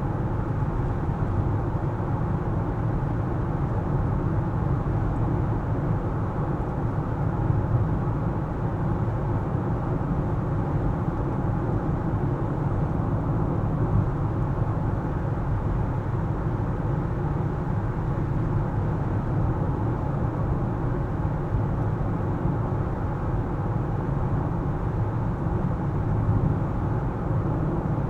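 A car driving, its engine and tyres on the road making a steady low rumble with no sudden changes.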